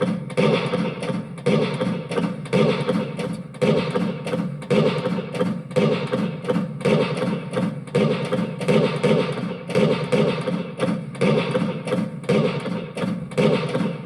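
Fireworks bursting in a rapid, uneven string of thumps, about two or three a second, with no pause.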